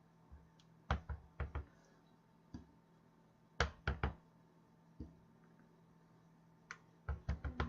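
A stamp tapped repeatedly on an ink pad and pressed onto cardstock, giving short sharp knocks in quick clusters of three or four, with single knocks between and a fast run of taps near the end.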